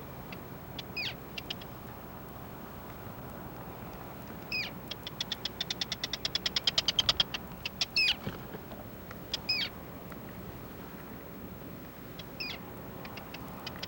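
Bird calls: short calls that bend in pitch, every few seconds, and in the middle a fast run of sharp notes, about ten a second, growing louder, over a steady background hiss.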